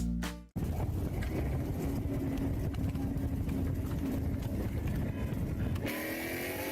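Music cuts off about half a second in, then the steady road and engine noise of a car driving. Near the end a rising engine-like whine comes in over it.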